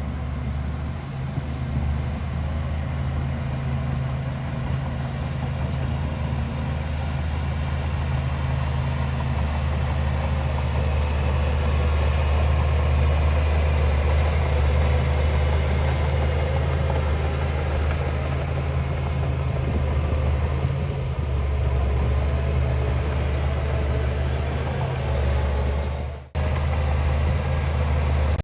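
Heavy diesel engine of earthmoving machinery running steadily, a deep drone that grows a little louder toward the middle. The sound drops out for a moment about two seconds before the end.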